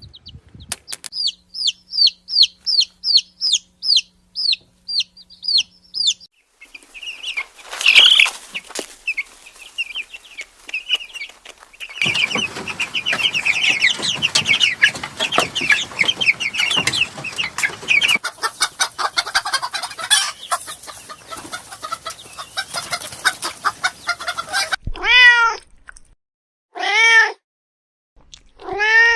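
A series of animal calls: a bird's high chirps repeated about twice a second, then busy clucking and chattering of chickens, then a cat meowing three times near the end.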